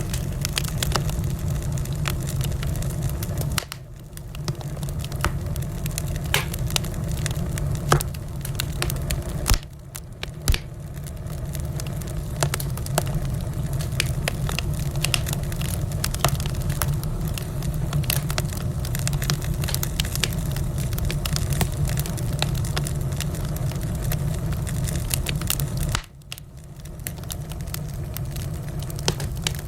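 Wood fire burning in a fireplace: dense crackling with frequent sharp pops and snaps over a steady low rumble of the flames. The sound briefly dips and comes back three times, about 4, 10 and 26 seconds in.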